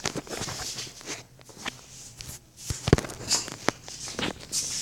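Footsteps and handling noise: irregular knocks, clicks and short rustles, with one louder knock about three seconds in.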